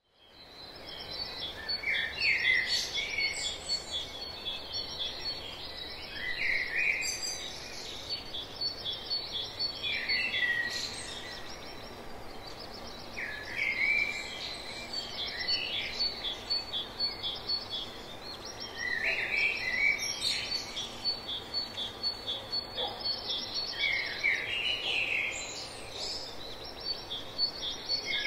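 Birds singing: one bird repeats a short song phrase about every four seconds, over a steady, rapid high trill.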